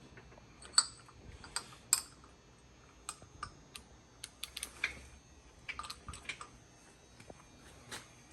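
Scattered light clicks and knocks at an uneven pace, loudest about a second and two seconds in, with a quick run of clicks around the middle: small metal tools and parts being handled.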